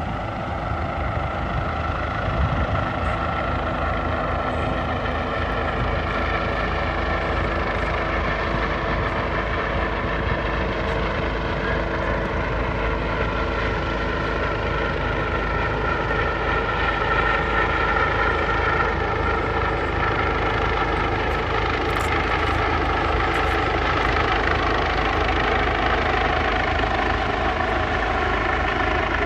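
Helicopter running steadily, a constant turbine whine and rotor drone with no break.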